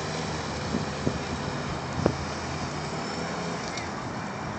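Yamaha FZ6R's inline-four engine running at low speed, a steady hum amid outdoor noise, with a couple of faint knocks about one and two seconds in.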